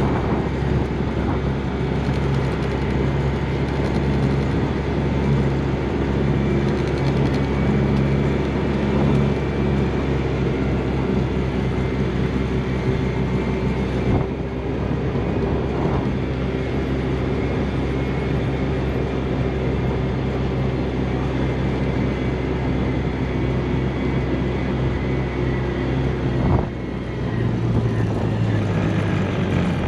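Vehicle engine running steadily while driving, with a steady drone of road and wind noise. Its note dips briefly about 26 seconds in and then runs lower near the end.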